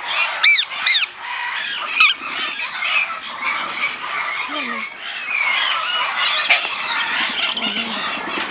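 Many parrots calling at once: a dense chorus of squawks, screeches and chatter, with a few loud arching calls about half a second in.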